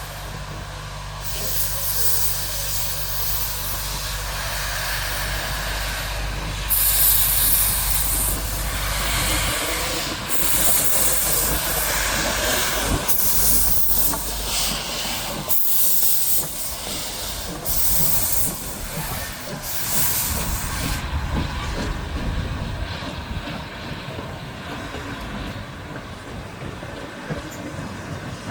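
Steam locomotive blowing off steam in loud hissing bursts that die down about two-thirds of the way through. A low steady hum runs underneath for the first ten seconds or so.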